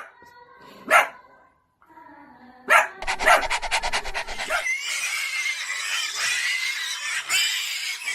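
A dog barking and yipping: sharp single barks about a second in and just before three seconds, followed by a longer, busier stretch of excited dog sounds.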